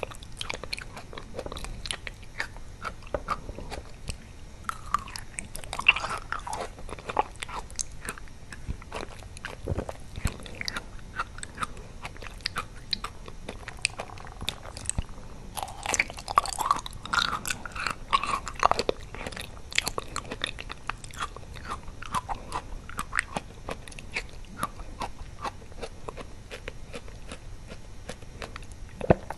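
Close-miked biting and chewing of raw aloe vera gel slices soaked in water, a run of many short crisp crunches and clicks, thickest about halfway through.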